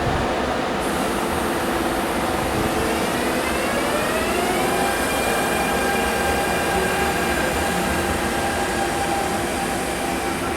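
MTR Tung Chung Line CAF train moving through the station with a steady rumble. Its traction motors whine, rising in pitch from about three seconds in to nearly five as the train picks up speed, then holding a steady tone.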